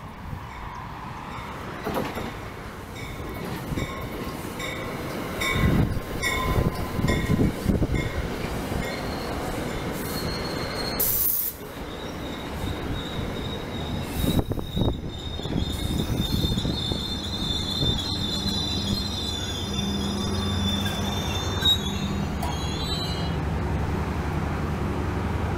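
Passenger train rolling past with its wheels squealing on the rails: short repeated squeals at first, then a long steady high-pitched squeal through the middle. A low steady hum joins near the end.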